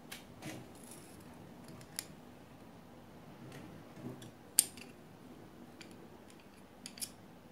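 Scattered small metallic clicks and taps as the presser-foot parts of an old JUKI sewing machine are handled and moved, the sharpest click about halfway through.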